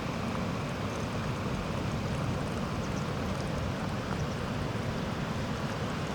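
Steady rushing of water from a nearby waterfall, an even roar with a heavy low rumble.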